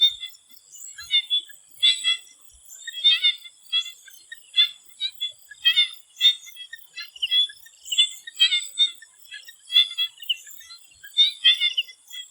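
Swamp frogs calling in a chorus: short pulsed calls come about once a second and overlap one another, over a steady high-pitched drone.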